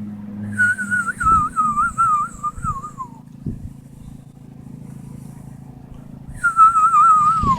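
A person's mouth-whistled bird-imitation call: two warbling phrases that quaver rapidly up and down and slide downward at the end. The first lasts about two and a half seconds; the second starts about six seconds in.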